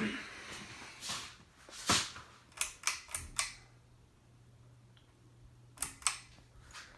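Several sharp clicks, then a steady low hum that sets in about three seconds in: the Harbor Breeze Centerville ceiling fan's motor running after being switched on.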